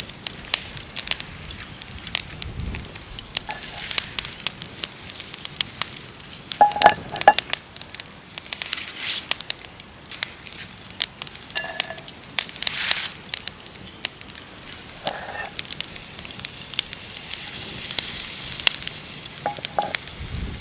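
Campfire crackling, with frequent sharp pops over a low steady hiss and a few brief whistling tones here and there.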